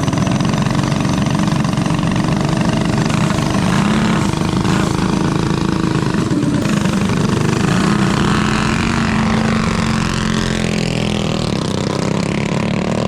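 Mini bike engine running continuously, its pitch wavering slightly near the end.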